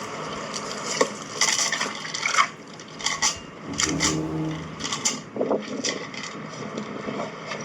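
Irregular clicks, clinks and scrapes of rigging gear being handled by hand, with a brief low hum about four seconds in.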